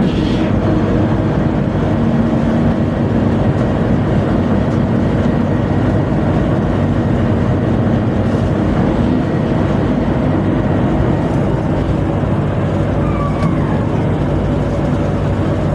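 Steady, loud drone of a tugboat's diesel machinery running at constant speed, a deep hum with engine tones, heard while the towing line is being shortened.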